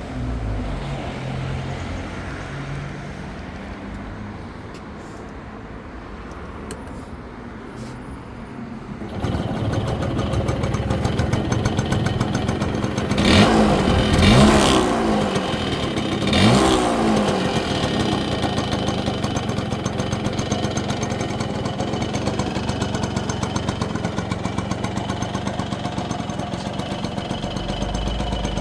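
1966 Yamaha YA6 125cc two-stroke motorcycle engine running. It gets louder about a third of the way in, is revved up and down a few times near the middle, then settles to a steady idle.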